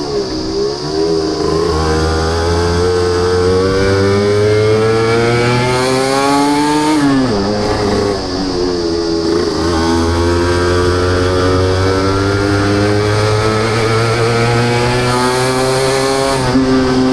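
Suzuki Wolf 125's two-stroke single-cylinder engine and exhaust under way, the pitch climbing as it accelerates, dropping sharply about seven seconds in at an upshift, then climbing slowly again in the next gear.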